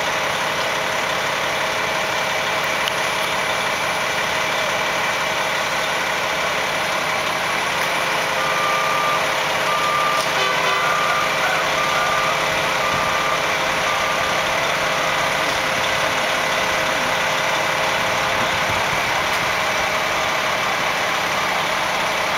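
Fire truck engines idling steadily. Midway through, a reversing beeper gives a run of evenly spaced single-pitch beeps for about six seconds.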